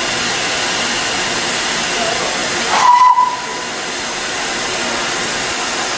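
Steam locomotive hissing steadily with escaping steam. About halfway through comes one short whistle blast of about half a second, the loudest moment.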